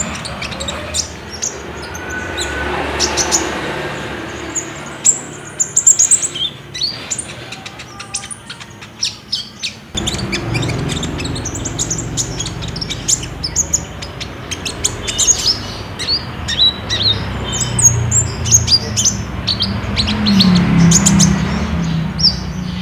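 Olive-backed sunbird (kolibri ninja) singing: rapid strings of short, high chirps and trills, with a sudden change in the background about ten seconds in.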